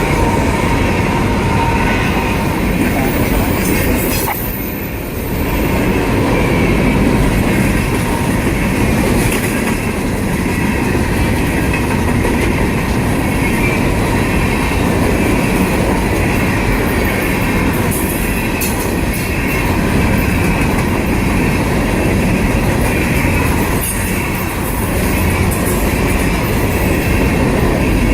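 A long string of empty Herzog rock (ballast) cars on a freight train rolling past in a steady rumble, with wheels squealing and the clickety-clack of wheels over rail joints. The level dips briefly about four seconds in.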